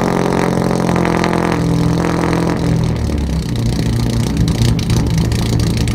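Straight-piped car engine, no muffler, running loud: its revs fall away over the first few seconds and settle into a steady, deep idle.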